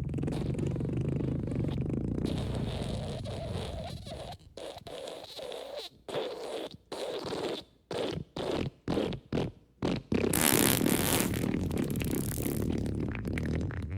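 Fart sound effects: a long, low fart, then a string of short separate bursts at about two a second, then a loud, hissing blast for the last few seconds.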